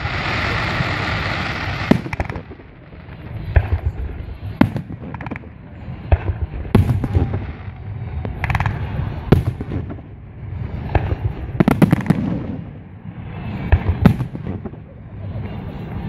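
Aerial fireworks display: shells bursting in sharp bangs every one to three seconds, with a rolling low rumble between them. A hissing rush fills the first two seconds.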